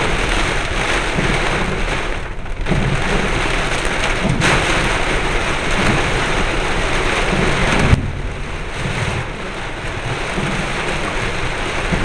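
Storm-force wind gusting hard, with a loud hiss and a heavy low rumble of the wind buffeting the microphone. There is a sharp click about four seconds in, and the wind eases slightly after about eight seconds.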